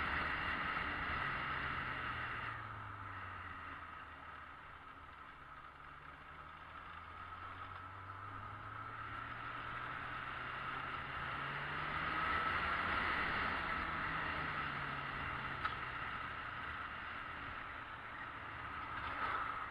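Yamaha XJ600S Diversion's air-cooled inline-four running on the move, under steady wind and road noise. The engine note drops for the first few seconds, climbs again from about halfway through, and eases off near the end.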